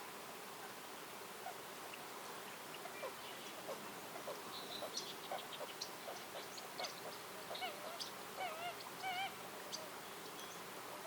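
Birds calling in woodland: a flurry of short, sharp chirps and calls that builds through the middle and tails off near the end, including a few wavering, buzzy calls, over a steady faint hiss.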